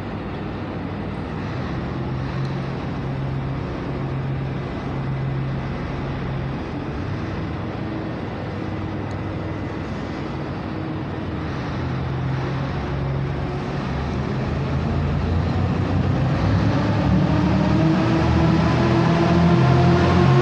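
KiYa 143 series diesel railcar's engine running loud and steady, then revving up from about two-thirds of the way through, its pitch rising and the sound growing louder.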